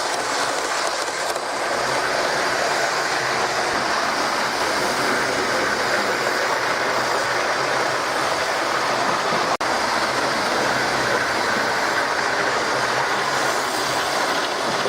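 Hornby OO-gauge Flying Scotsman model train running at high speed on its track: a steady whirr of the small motor and the clatter of wheels on the rails. There is a momentary dropout about nine and a half seconds in.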